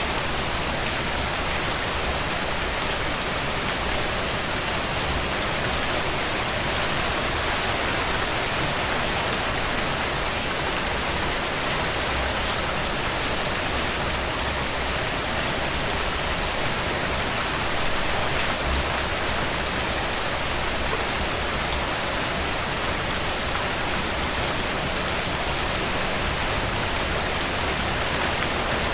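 Steady rain falling on a tent: an even hiss with scattered faint ticks of drops.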